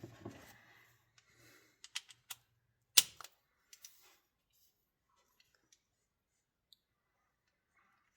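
Hand tools being handled: scattered light metallic clicks and clinks, with one sharp clack about three seconds in, then only a few faint ticks.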